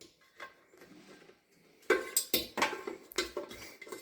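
A utensil clinking against a mixing bowl in a quick, irregular run of sharp clinks, starting about two seconds in, as the cake batter is stirred or beaten by hand.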